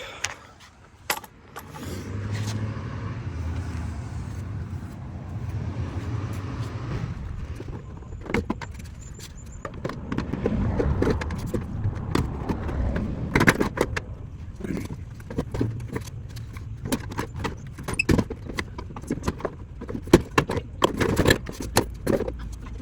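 A vehicle engine running low and steady from about two seconds in, with frequent clicks and knocks over it.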